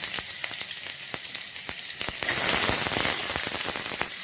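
Chopped onion frying in hot oil with whole spices in a pot: a steady sizzle full of small crackles, which grows louder about two seconds in.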